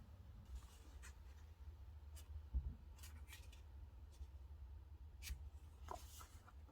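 Quiet desk sounds of paper and stationery being handled while decorating a diary: a few short soft ticks and scratches, with a low thump about two and a half seconds in, over a faint low hum.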